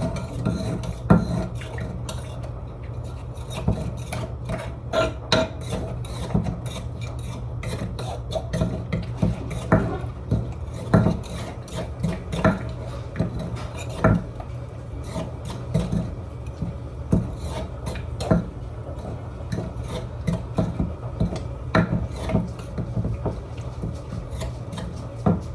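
Mixing thum seasoning in a mortar: a utensil scraping, rubbing and knocking against the mortar in irregular strokes throughout, over a steady low hum.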